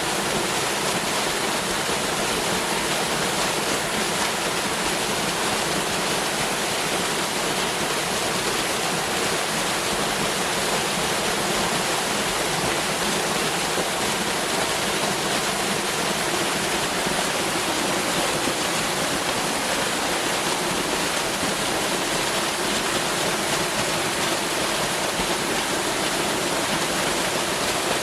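Waterfall: water falling steadily, a constant even rush with no breaks.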